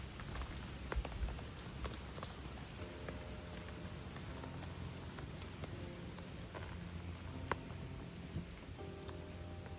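Steady rain falling, with scattered sharp crackles and pops from a wood campfire.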